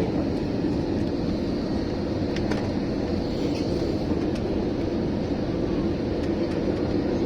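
Steady cabin noise of an Airbus A321 descending for landing: an even rumble of the jet engines and rushing air, with a few faint ticks.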